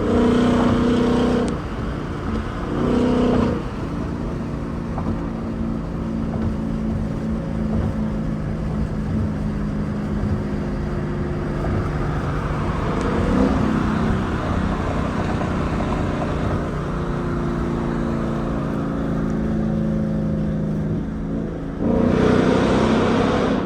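2015 Mustang GT's 5.0-litre V8 with an aftermarket exhaust, driven on the highway. Its note holds steady while cruising, with short louder bursts of throttle at the start, again about three seconds in, and near the end.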